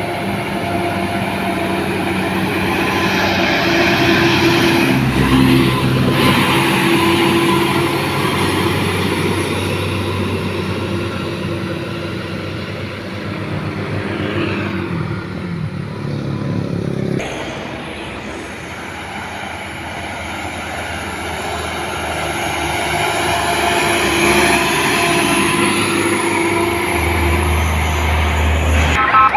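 Heavy trucks' engines straining under load up a steep climb, swelling and fading as they pass, with an abrupt break about 17 seconds in.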